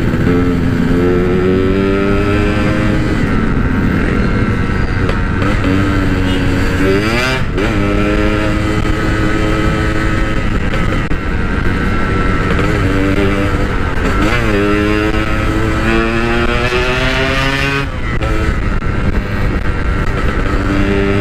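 Yamaha RX-King two-stroke single-cylinder motorcycle engine running under way, its pitch climbing and dropping as the throttle is opened and closed, with quick revs about a third of the way in and twice more near the end.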